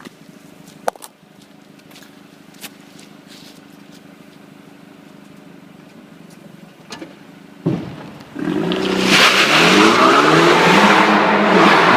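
BMW F30 328i's turbocharged four-cylinder with a performance rear silencer, running quietly at first with a few light clicks. About eight seconds in there is a thump, then the exhaust turns loud under hard acceleration, the pitch climbing and falling as the revs rise and the gears change.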